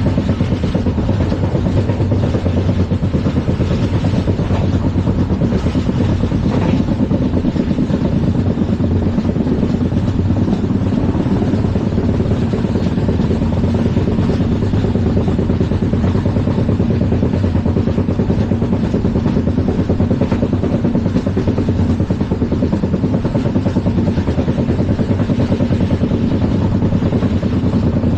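Running noise of Indian Railways LHB passenger coaches at speed: a loud, steady rumble and roar of wheels on the track.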